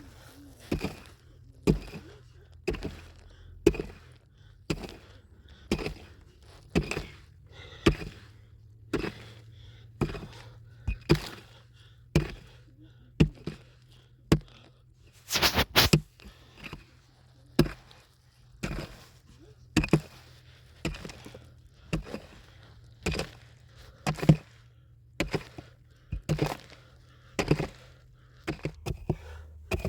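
Repeated chopping strikes of a hand tool, about one a second, with a louder flurry of blows about halfway through.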